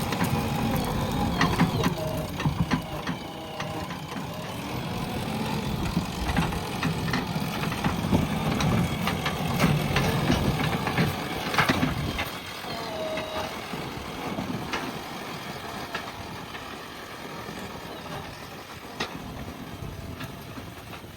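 JCB backhoe loader's diesel engine running, with scattered knocks and clanks; the engine sound drops away about twelve seconds in.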